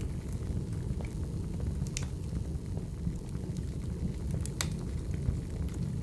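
Firewood burning: a steady low roar of the fire with scattered sharp crackles and pops, the loudest pops about two seconds and four and a half seconds in.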